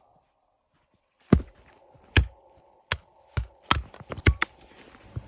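Pieces of wood knocking against wood as they are set in place, about eight sharp knocks at an irregular pace, coming quicker near the end.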